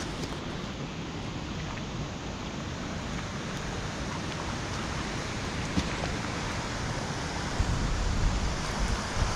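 Steady rushing noise of heavy rain and running water, with wind buffeting the microphone in gusts from about three quarters of the way through.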